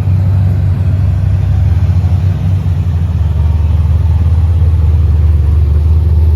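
Deep, loud exhaust rumble of a truck engine running close by, steady, with a slight rise in loudness in the second half.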